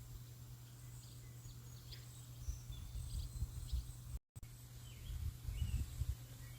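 Birds giving short, scattered chirps over an irregular low rumble and a faint steady hiss, with a brief cut to silence about four seconds in.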